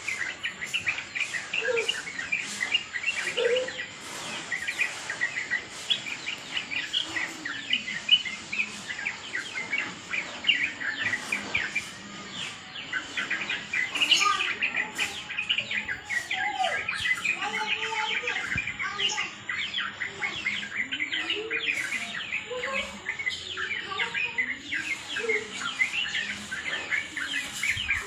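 Sooty-headed bulbuls (trucukan) calling in a busy, noisy chorus: dense rapid chirps throughout, with lower bending notes now and then.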